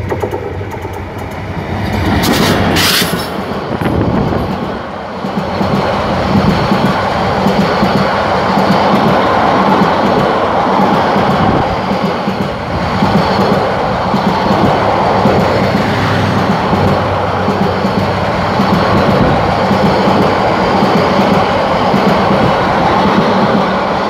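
Diesel-hauled Bangladesh Railway passenger train passing close by: a steady rumble with a low hum and the clickety-clack of coach wheels over the rail joints. A brief sharp high sound stands out about two to three seconds in.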